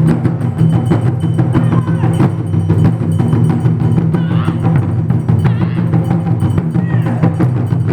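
Taiko drum ensemble playing a fast, dense rhythm: deep drum strokes under rapid sharp clicks.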